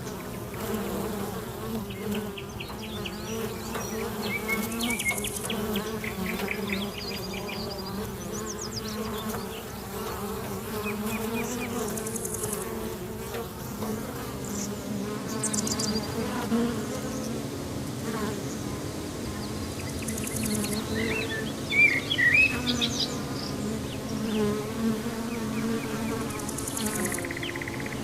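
Flying insects buzzing steadily, a wavering drone that rises and falls as they move about, with short high chirps now and then, a loudest cluster about three quarters of the way through.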